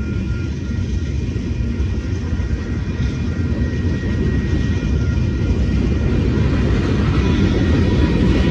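Freight cars rolling past at a grade crossing: a steady rumble of steel wheels on rail, growing slightly louder toward the end.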